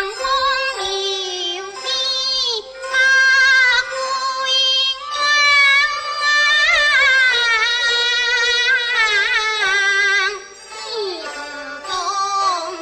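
Teochew opera singing: a high voice sings drawn-out phrases with wide vibrato and sliding pitch over sustained instrumental accompaniment.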